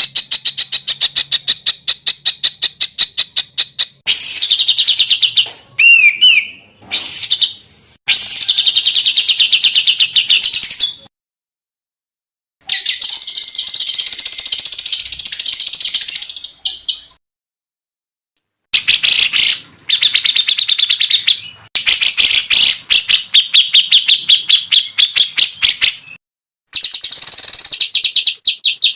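Songbird 'tembakan' song: fast runs of rapidly repeated sharp chattering notes, coming in bursts of a few seconds. The bursts are broken by short, clean silences, and there is a short curved whistle about six seconds in.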